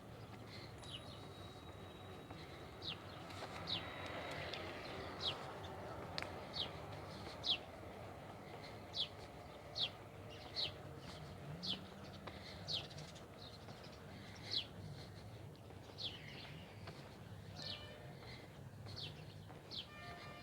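A bird calling with short, sharp chirps that drop in pitch, repeated roughly once a second, over a steady low background rumble.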